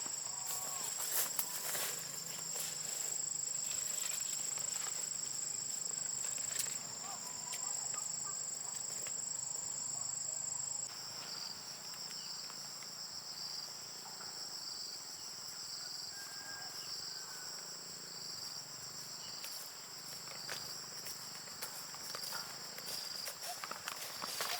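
Steady high-pitched insect chorus trilling, with a regular pulsing call joining about halfway through, roughly once a second.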